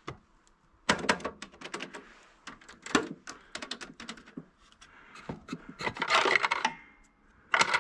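Irregular clacking and clicking of an old mechanical cash register being handled, its keys and levers knocking, with a denser rattle about six seconds in.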